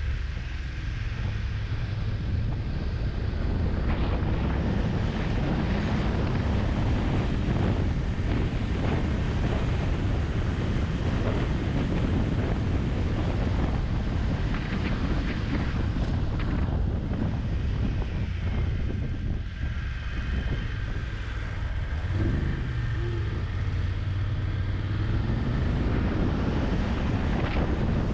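Wind rushing over the microphone of a moving motorcycle, with the engine running underneath. About three quarters of the way through, an engine note dips and then rises again.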